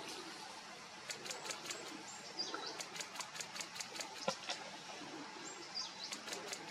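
A rapid burst of camera shutter clicks, about five a second for three and a half seconds, with a few short, high bird chirps that step down in pitch, over steady outdoor background noise.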